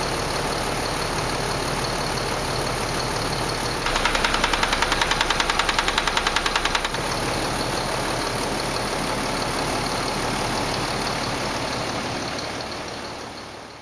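Truck diesel engine running steadily. About four seconds in, a fast, even knocking of about seven beats a second joins it for roughly three seconds, then stops. The sound fades out near the end.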